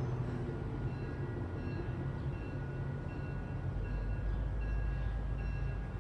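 Commuter train passing with a steady low rumble that deepens a few seconds in, and a short high ringing tone repeating about once a second.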